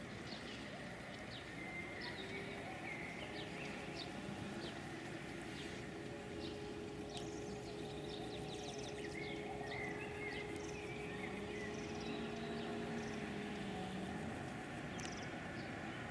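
Outdoor village ambience: small birds chirping in short, scattered calls over steady background noise and a faint steady hum. A low drone rises, holds and falls again about two-thirds of the way through.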